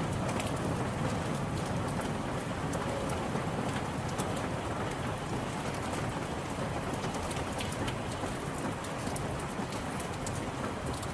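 Steady rain falling on a surface: an even hiss of rainfall with many sharp individual drop ticks over it and a low rumble underneath.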